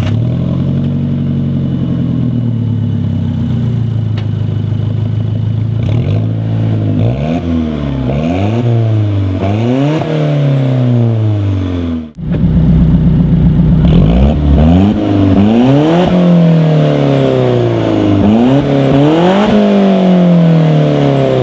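Alfa Romeo 4C's turbocharged four-cylinder engine through a valved sport exhaust, idling steadily and then blipped in repeated revs that rise and fall. After a brief break about twelve seconds in, the revving is louder.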